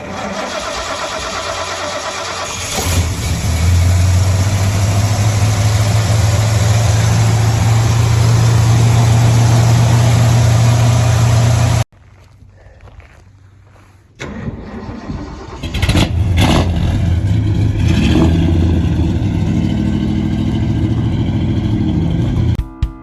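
1970 Ford F100 pickup's engine starting and running, picking up speed about three seconds in and holding a steady fast idle until it cuts off sharply. After a short quiet gap it starts again, is revved in a couple of short blips, and settles back to idle.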